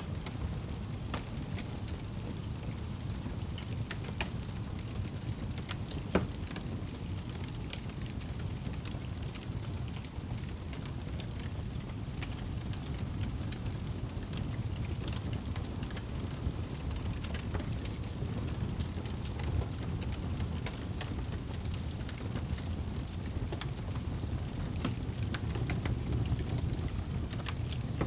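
Wood fire burning in a fireplace: a steady low rumble of flames with scattered crackles and pops, the loudest pop about six seconds in.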